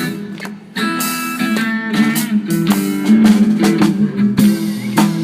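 Instrumental break in a band's song: guitar chords over drum-kit beats, dropping away briefly just before the 1-second mark and then coming back in.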